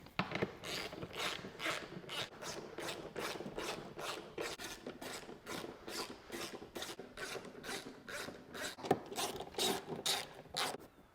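Ratchet wrench with a 13 mm socket clicking in quick back-and-forth strokes, about three a second, as bolts are tightened. One sharper knock comes about nine seconds in.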